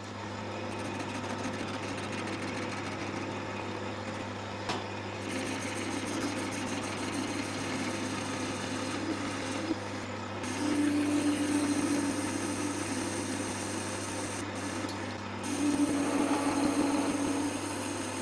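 Metal lathe running steadily while cutting, turning a part's diameter down. A humming tone swells in twice during the second half: a little bit of chatter starting to creep in at this speed.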